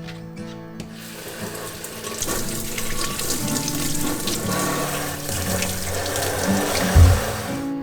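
Water running from a tap into a sink, starting about a second in and stopping just before the end, over soft background music. There is a low thump near the end.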